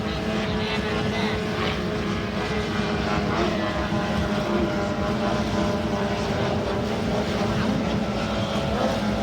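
30 hp outboard engines on small racing boats running at high, steady revs, giving a continuous droning whine.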